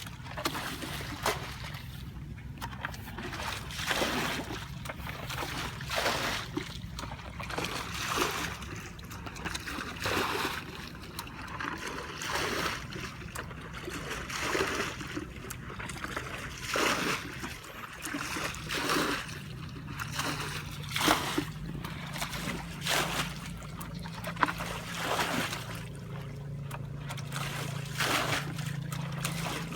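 Water splashing and sloshing in irregular bursts as children wade and grope for fish by hand in shallow water. A steady low hum runs underneath and grows stronger about two-thirds of the way in.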